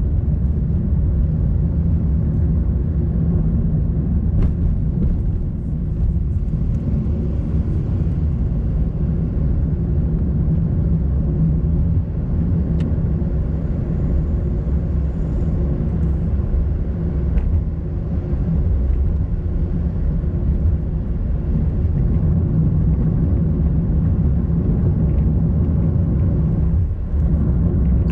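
Car driving steadily along a road: continuous engine and tyre rumble, with a few faint ticks and a brief dip near the end.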